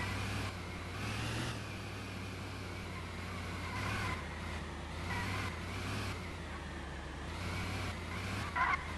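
Steady road and tyre rumble of an electric car being driven, heard from inside the cabin, with a short tonal sound near the end.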